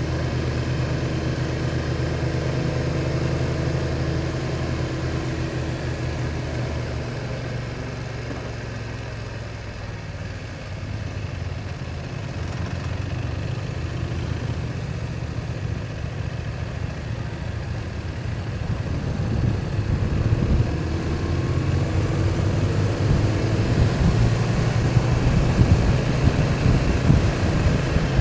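BMW R1200 motorcycle's boxer-twin engine running at a steady speed while riding. In the second half a gusty low rumble of wind on the microphone grows louder.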